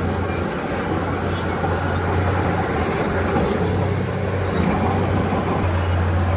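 Diesel engine of a Komatsu D31P crawler bulldozer running steadily with a low drone.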